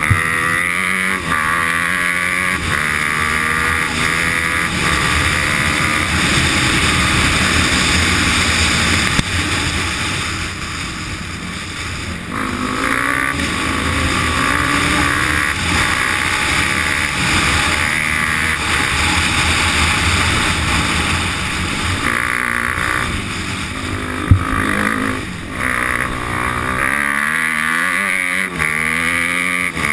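Dirt bike engine under way, revving up and down as the rider works the throttle and gears over a dirt track, with wind noise on the onboard camera microphone. A single sharp knock about twenty-four seconds in.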